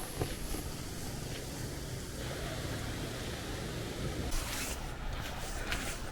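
Low wind rumble buffeting the microphone, with a few footsteps on a bush walking track, mostly in the last two seconds.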